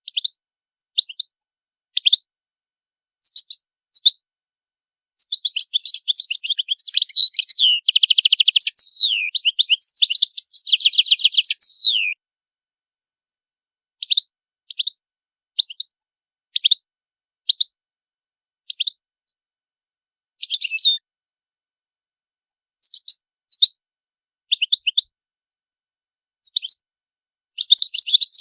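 European goldfinch singing: short, high twittering notes every second or so, with one long run of rapid twittering and buzzy trills from about five to twelve seconds in.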